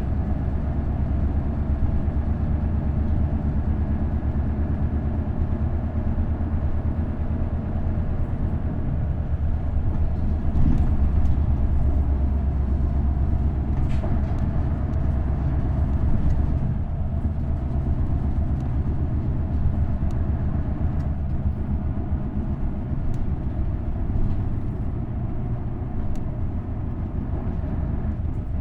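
Isuzu Erga city bus's V8 diesel engine pulling the bus along the road with a steady low drone, working hardest about ten to sixteen seconds in and then easing off.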